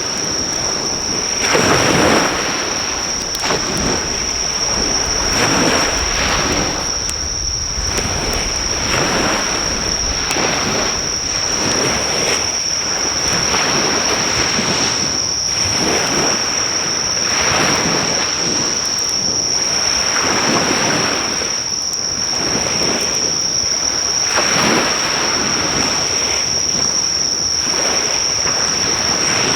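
Sea waves breaking and washing on the shore in repeated surges every couple of seconds, over a steady high-pitched insect trill. The faint crackle of a driftwood fire ticks in now and then.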